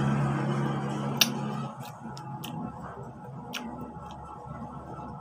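Sharp, irregular clicks roughly every half second from crisp, sour unripe Indian mango being chewed. A low steady hum dies away about a second and a half in.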